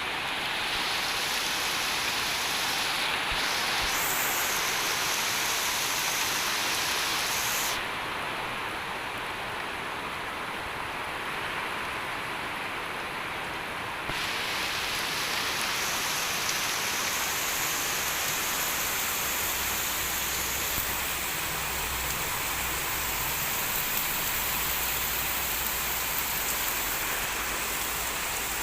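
Heavy rain pouring down in a dense, steady hiss. It drops a little in level abruptly about eight seconds in and comes back just as abruptly about fourteen seconds in.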